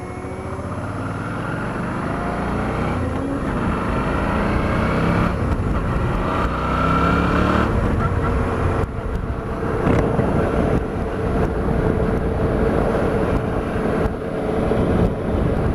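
Motorcycle engine accelerating under way, its pitch climbing and falling back through several gear changes, then holding a steadier tone at cruising speed, with road and wind rumble on a helmet microphone.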